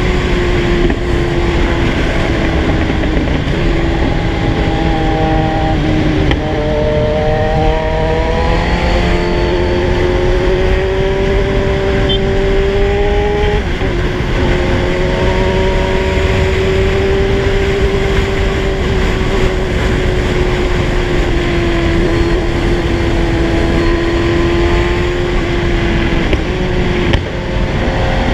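Kawasaki Z1000 inline-four engine under way at a steady cruise, with wind rushing on the microphone. The engine note climbs gradually and drops sharply twice, around six and fourteen seconds in, as gears change.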